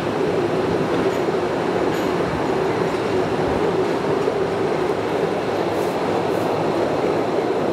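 Cave tourist train running steadily along its track, a continuous rolling noise of the wheels on the rails, heard from on board an open carriage.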